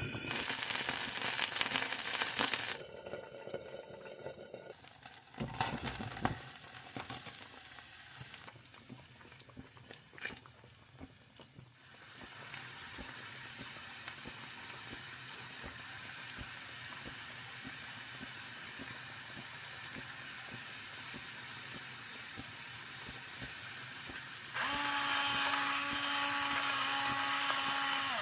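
A run of kitchen sounds: a burst of water noise at first, then a long steady sizzle of food frying in a pan, and a small electric kitchen appliance motor whirring steadily near the end.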